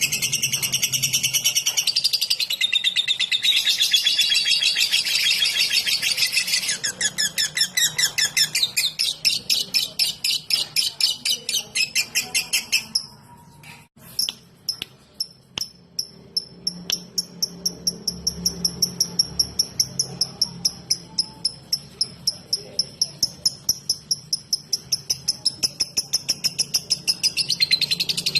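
Lovebird singing in the rapid 'ngetik' (typing) style: a dense, high chattering run through the first half, a brief break, then a long series of quick, evenly repeated ticking notes, about three or four a second.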